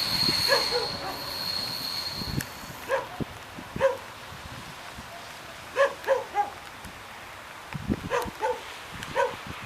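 A dog barking in short, irregular groups, about ten barks in all. For the first two or three seconds the noise of the departing electric train, with a steady high whine, fades away beneath the barks.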